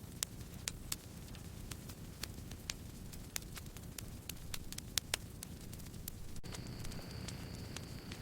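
Campfire crackling, with sharp irregular pops over a steady low rumble of flames; a couple of the loudest pops come about five seconds in. Some six seconds in, a thin steady high-pitched tone joins.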